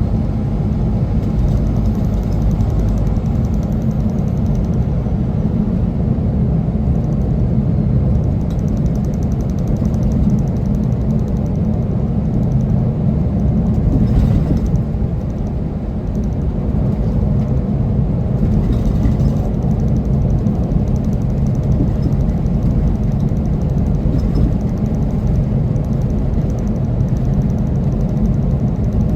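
Semi truck under way: a steady low rumble of engine and road noise.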